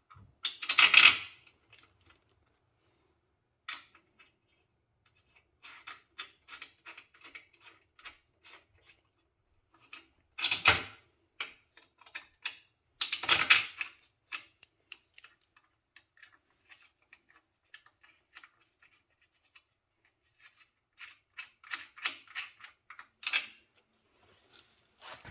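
Hand tools working the 1/2-inch bolts and lock nuts on a miniature locomotive's jackshaft mount: runs of rapid small metallic clicks, with a few louder knocks of metal on metal, about a second in and again around ten and thirteen seconds.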